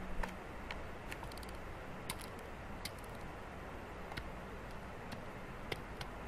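Scattered sharp ticks and clicks, about a dozen at irregular intervals, over a steady low background rumble.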